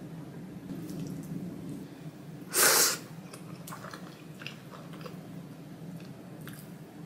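Close-miked chewing of a mouthful of ramen noodles, with one loud half-second rush of breath about two and a half seconds in. After it come small clicks and soft rustles as wooden chopsticks and a plastic spoon pick up noodles and a slice of chashu.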